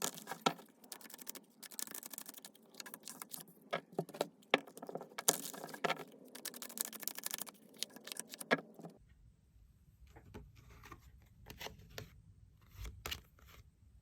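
Tarot cards being shuffled and handled: a dense run of rustling and sharp clicking for about nine seconds, then sparser, quieter clicks over a low hum.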